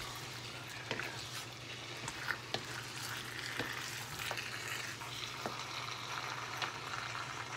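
Chicken and vegetables in tomato paste sizzling in a nonstick wok, with scattered clicks and scrapes of a wooden spatula stirring against the pan.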